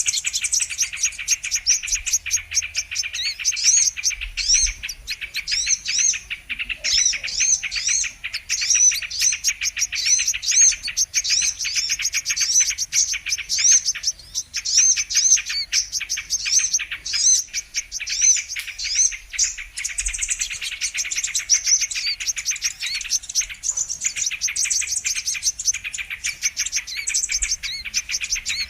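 Brown-throated sunbirds (kolibri kelapa) singing: a dense, continuous stream of rapid, high-pitched chirps and twitters that overlap one another.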